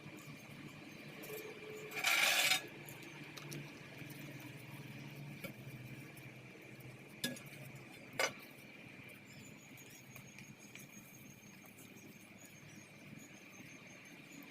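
Metal parts and hand tools handled during a brush cutter teardown: a brief rattling scrape about two seconds in, then two sharp metallic clicks a second apart. A faint steady high tone runs underneath.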